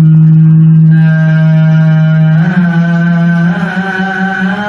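A man's voice in melodic Quran recitation holding one long, steady note, as in a drawn-out vowel, then stepping slightly higher about halfway through and holding again.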